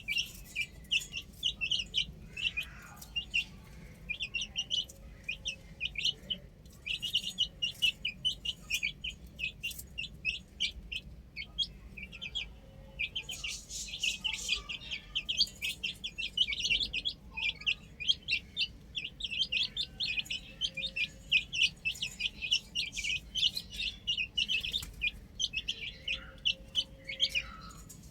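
A group of baby chicks peeping non-stop: many short, high chirps in quick succession, overlapping one another.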